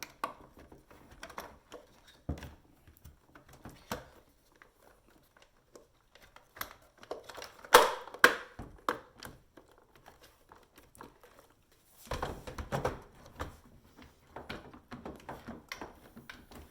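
Wires and plastic cover parts of a dishwasher control board being handled and fitted back together: scattered clicks, knocks and rustling, with the sharpest knocks about eight seconds in.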